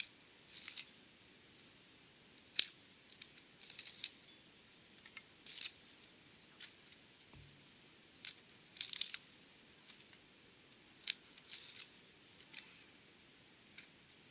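Dry wood giving off short, irregular crackles and scrapes, with one sharp snap about two and a half seconds in.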